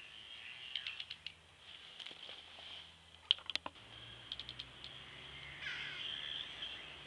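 Garden birds chirping steadily, with three short runs of rapid clicking, the loudest about halfway through.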